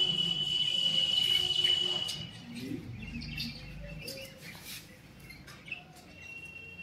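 Bird calls: a steady, high whistled note held for about two seconds at the start, then scattered short chirps, and another held high note near the end.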